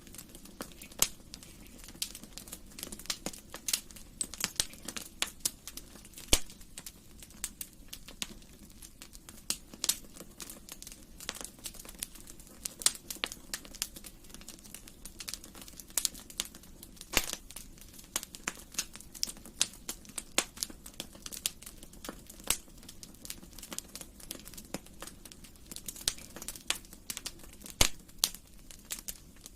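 Wood fire crackling in a fireplace: a steady stream of sharp, irregular pops and snaps over a low background hiss.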